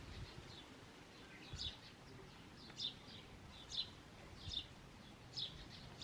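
A small bird chirping faintly and repeatedly: short, sharp, high chirps about once a second, starting about a second and a half in.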